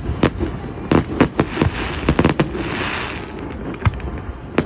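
Fireworks display: a rapid, irregular run of sharp bangs several times a second, with a hissing crackle of burning stars between about two and three and a half seconds in.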